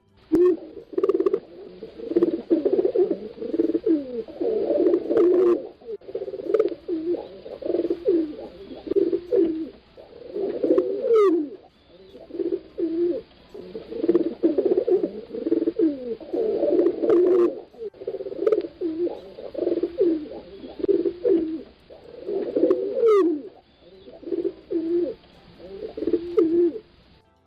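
Several pigeons cooing continuously, their low, throaty phrases overlapping and repeating every second or two. A brief thin higher sweep cuts in twice.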